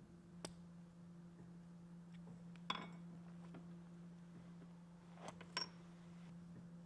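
A few light clicks and clinks of small hard objects being handled, four in all, the loudest a little under halfway through, over a steady low hum.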